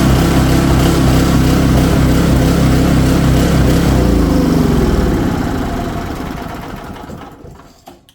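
Dayton 2000-watt generator's 5 hp Briggs & Stratton single-cylinder engine running steadily. About four seconds in it is shut off and winds down, its pitch falling as it coasts to a stop.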